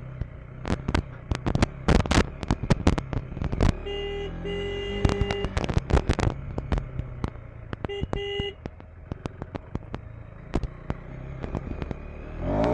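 KTM 390 Enduro R's single-cylinder engine running at low speed over rough ground, with frequent sharp clicks and knocks. A steady beeping tone sounds twice, a longer one about four seconds in and a short one about eight seconds in.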